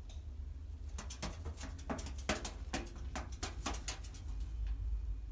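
Chicken's beak pecking and biting at a microwave's metal and plastic casing: a quick, irregular run of sharp taps, often in pairs, starting about a second in and stopping about a second before the end.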